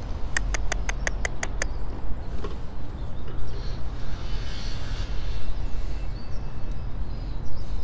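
A quick, even run of about eight sharp clicks about half a second in, over a steady low rumble.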